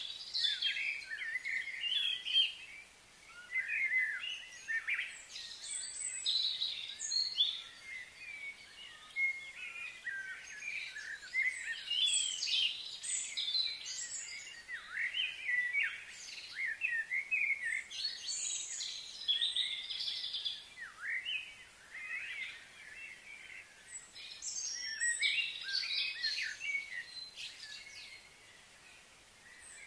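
Wild songbirds chirping and singing, many short overlapping calls and trills with hardly a pause.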